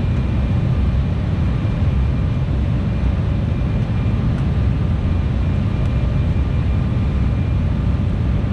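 Steady cabin noise aboard an Embraer E175 airliner: a constant low rumble of engines and airflow with a faint, steady high whine.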